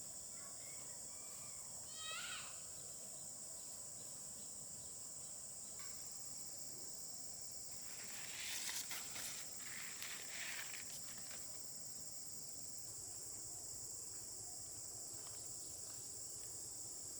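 A steady high-pitched drone of insects. A brief animal call comes about two seconds in, and a burst of rustling and crackling, like footsteps or handling of dry plant material, comes about halfway through.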